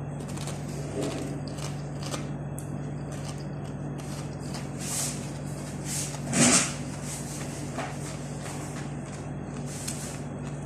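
Crunchy snack being bitten and chewed: a few faint crackles and one louder brief crunch about six and a half seconds in, over a steady low hum.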